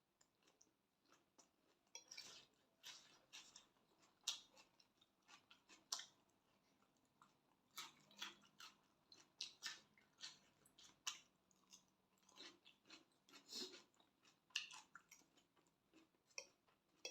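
Faint, close-up sounds of someone chewing and eating a spicy glass-noodle salad, with many irregular soft clicks and crunches.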